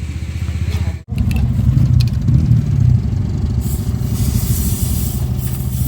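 Motorcycle engine running at a steady idle, cutting out for an instant about a second in, then running on louder.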